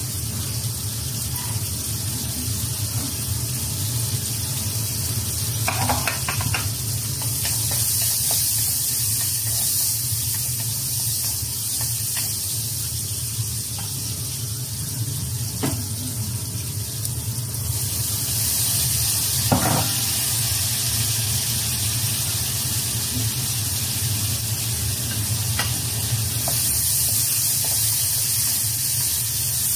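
Food sizzling as it fries in a wok, with a few sharp knocks of the wooden spatula against the pan. The hiss swells louder for stretches, over a steady low hum.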